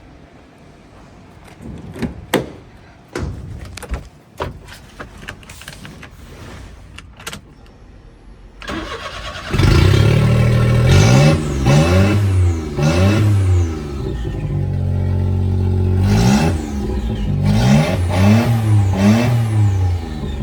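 Daihatsu Copen's EF-DET 660 cc three-cylinder turbo engine starting about nine seconds in, after a few scattered clicks and knocks. It then runs at idle and is revved in two groups of quick blips, its pitch rising and falling with each blip.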